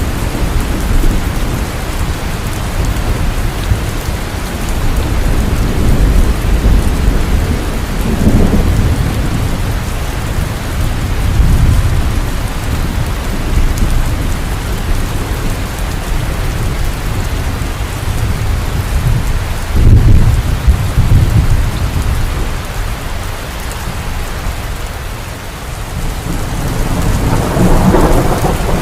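Heavy rain falling steadily with rolls of thunder rumbling underneath. The thunder swells several times, strongest about twenty seconds in, and a brighter surge of rain or thunder builds near the end.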